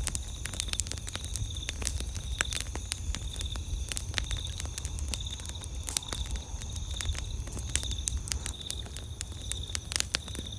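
Campfire wood crackling with many sharp, irregular pops, over an evenly pulsing high chirping of night insects.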